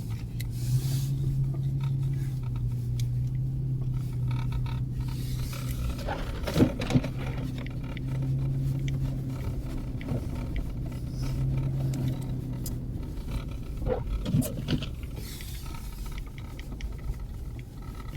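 Car running, heard from inside the cabin: a steady engine drone over road rumble, with a few knocks and rattles around the middle and later on.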